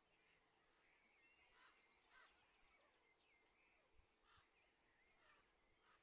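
Very faint birdsong: scattered short chirps and whistles of small birds over near-silent rural ambience.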